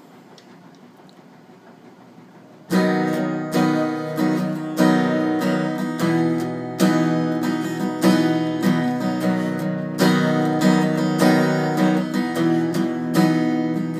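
Low room noise for a few seconds, then an acoustic guitar starts strumming chords, the song's intro, with regular strokes from about three seconds in.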